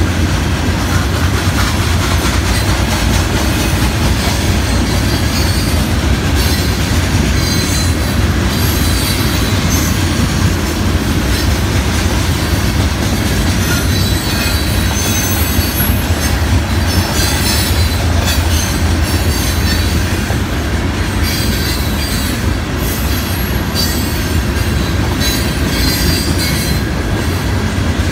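Loaded freight cars of a long rock train rolling steadily past. The wheels keep up a continuous rumble on the rail, with high wheel squeal coming and going and some clickety-clack.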